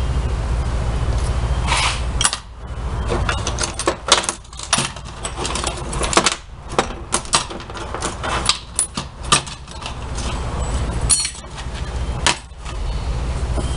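Irregular clinks, clicks and knocks of metal parts and tools being handled during work on a washing-machine transmission, some ringing briefly. They fill most of the middle stretch over a steady low hum.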